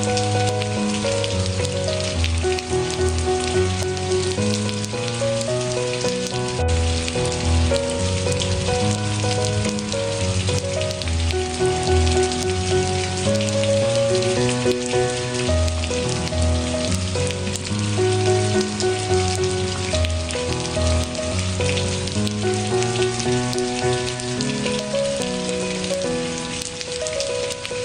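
Steady, even rain with slow instrumental music over it: held notes that change about once a second above a low bass line.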